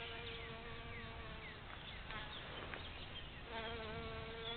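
A bee buzzing in flight close to the microphone, a steady droning hum that fades away about a second and a half in and comes back near the end.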